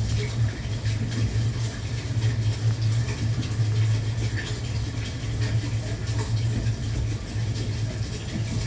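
Cabin sound of a JR West Thunderbird limited express train running: a steady low rumble with faint scattered clicks and rattles.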